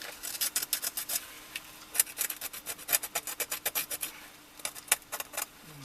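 Small knife blade scraping the leather edge of a sandal insole in three quick runs of short strokes, roughing the surface so the polyurethane glue will take.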